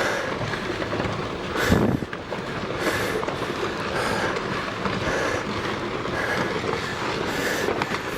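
Rockfall on a volcano slope: loose rocks tumbling and clattering down in a steady rush of noise, with one louder crack about two seconds in.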